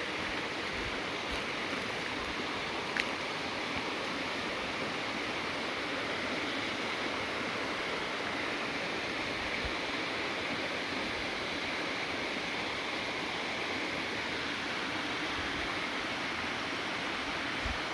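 Steady rushing of running water, with one brief high click about three seconds in.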